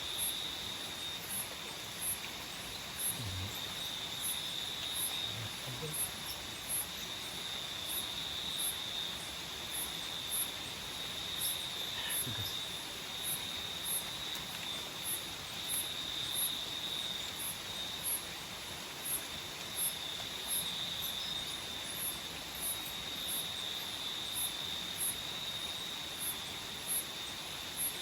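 Tropical forest nocturnal insects calling at night: a steady high trill underneath, with another insect giving a short high chirp over and over, a little more than once a second.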